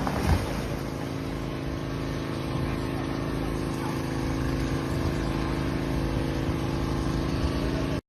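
An engine running steadily under a wash of wind or water noise, cutting off abruptly at the end.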